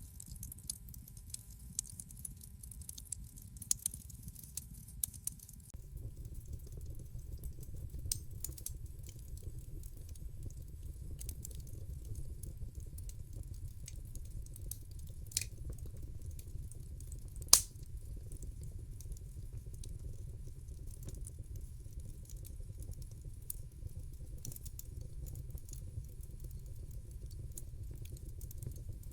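Wood fire crackling in a fireplace: a steady low rumble of burning with scattered sharp pops and snaps, the loudest pop a little past halfway. About six seconds in, the low rumble grows fuller and the fine high crackling thins.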